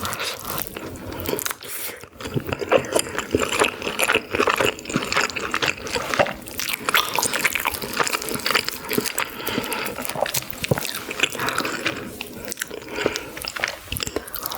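Close-miked chewing and wet mouth sounds of someone eating, a busy run of small smacks and clicks.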